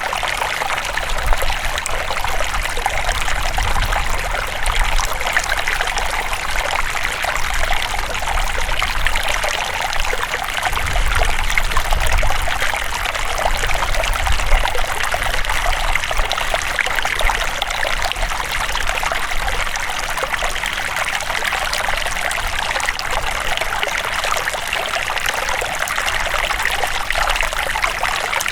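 River water flowing steadily, with an even, continuous trickling rush.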